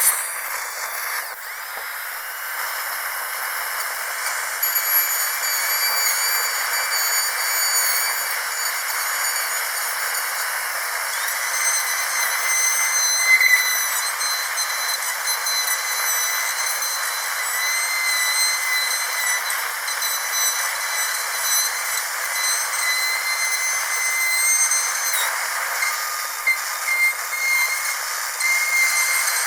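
Dentist's drill running with a steady high-pitched whine over a hiss of air and water spray, the whine shifting slightly in pitch now and then, with brief louder peaks near the start and about 13 seconds in.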